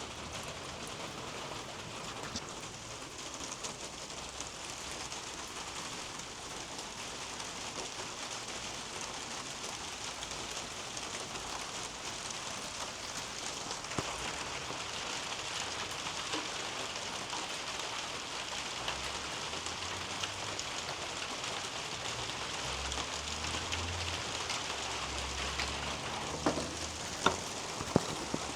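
Steady rain falling through a leafy garden canopy onto leaves and soil, with a few sharper, louder drops near the end.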